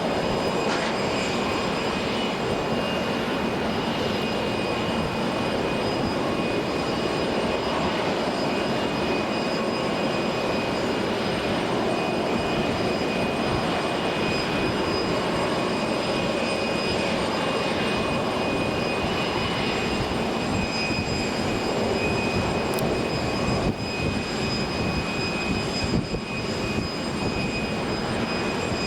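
Jet airliner engines running, a steady rush of noise with a high whine above it that holds throughout.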